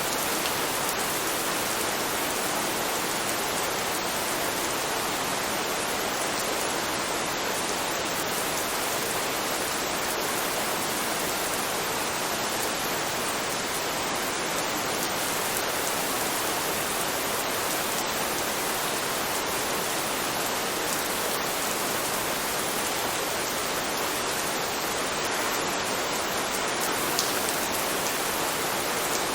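Steady rain, an even hiss of falling drops with no change in level, and one brief tick near the end.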